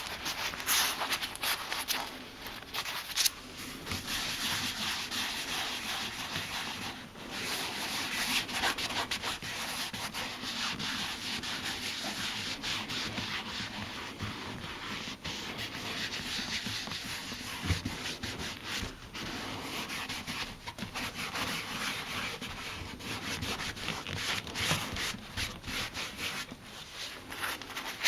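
A French-polishing rubber (a cotton-covered pad charged with leather dye) being rubbed over a chair's leather: a steady scratchy rubbing hiss with short breaks.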